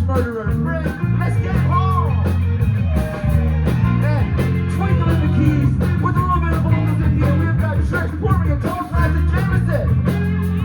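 Live rock band playing: electric guitars with bending lead lines over bass and a steady drum beat.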